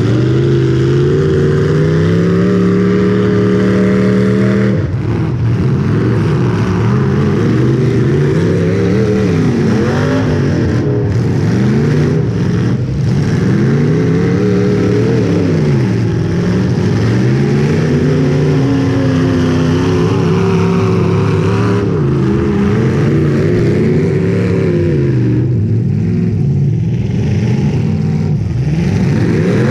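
Demolition derby car engine running loud, revving up and down over and over, its pitch rising and falling every couple of seconds after a steadier stretch at the start.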